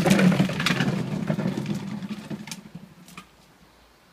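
Suzuki GSX-R 1000 K3's inline-four engine idling through an aftermarket Akrapovič silencer, fading out about three seconds in.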